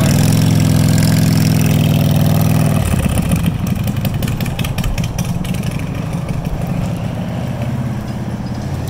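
Harley-Davidson Shovelhead V-twin engine of a chopper running as the motorcycle pulls away. The note changes abruptly about three seconds in and becomes rougher, then fades as the bike rides off.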